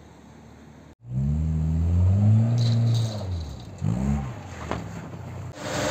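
Volkswagen Golf Mk2's engine revving hard as the car slides in snow. The rev starts about a second in, climbs and falls away, and a second, shorter rev follows.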